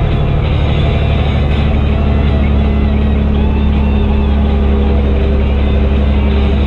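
Fendt Favorit 926 Vario tractor's six-cylinder MAN diesel running steadily with an open exhaust, a deep, even drone. A higher steady tone joins in about one and a half seconds in.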